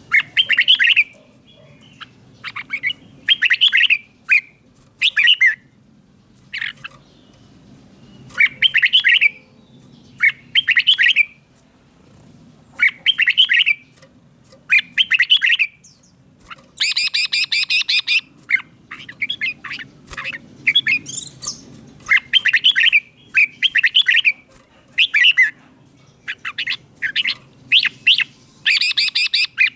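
Red-whiskered bulbul singing: short, bubbly whistled phrases about a second long, repeated every one to two seconds, with a harsher, buzzier phrase about halfway through.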